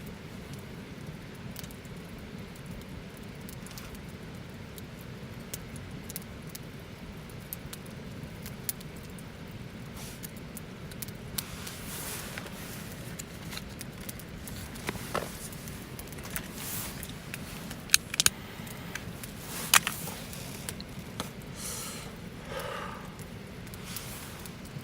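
Wood campfire burning: a steady low hiss of flame with scattered sharp crackles and pops, a few louder pops past the middle.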